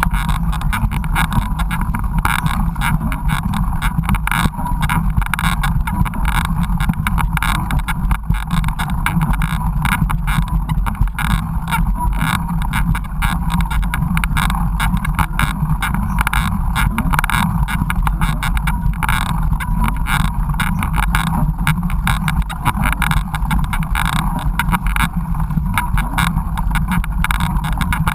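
Mountain bike riding over a rough trail, heard through a GoPro action camera: a steady low rumble with constant rattling and knocks from the bumps.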